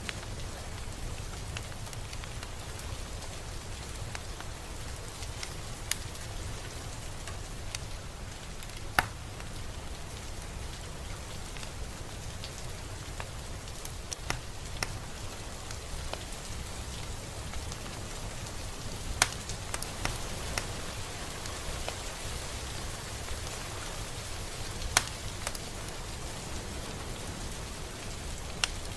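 Steady rain falling, with a few louder single drops ticking sharply close by, scattered through it.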